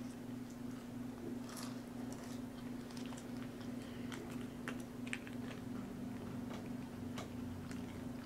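Chewing with the mouth closed, with scattered small clicks and crinkles from a paper ketchup packet being handled, over a steady low hum.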